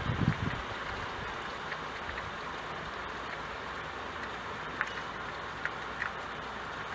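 Steady rain falling, an even hiss, with a few low thuds right at the start and a handful of short sharp ticks in the second half.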